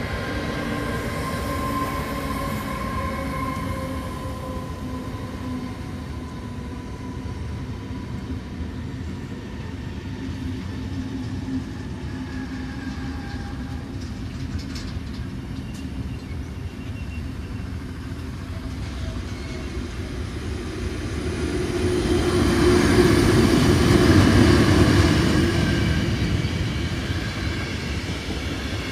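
Long freight train rolling past behind a Vectron electric locomotive: the locomotive's whine fades over the first few seconds, then the wagons' wheels keep up a steady rumble and clatter. The rumble swells louder for a few seconds near the end.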